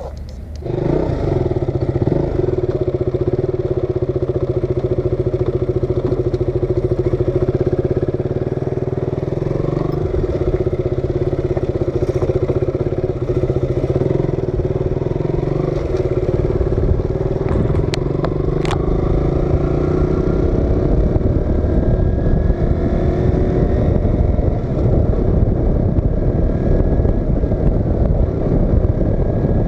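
KTM RC 200's single-cylinder engine running steadily as the motorcycle is ridden along a rough paved road, with wind on the microphone growing louder as speed builds in the second half.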